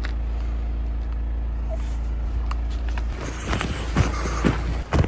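Portable generator engine running with a steady low hum. About three seconds in the hum drops back and a run of irregular crunches and knocks takes over.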